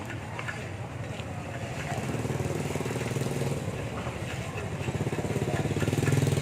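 An engine running steadily nearby, getting louder over the second half.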